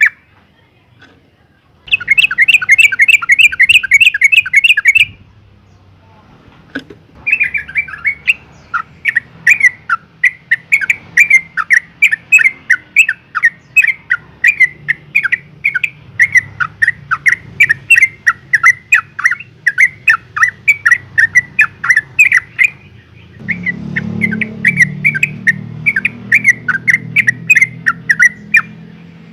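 Female yellow-vented bulbul calling in rapid chattering notes: a short burst, a pause, then a long unbroken run at about three notes a second. A low rumble comes in underneath near the end.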